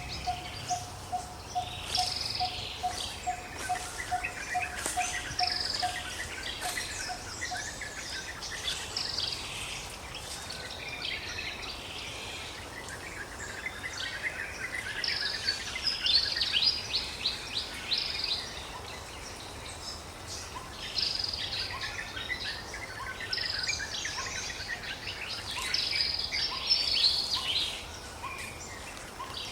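Forest ambience of several birds calling and chirping, with overlapping quick high trills and whistled notes. A lower note repeats about three times a second and fades out around a quarter of the way through.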